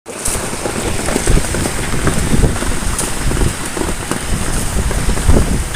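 Strong gusty wind blowing hard across the microphone: a loud, uneven rumble with a hiss on top.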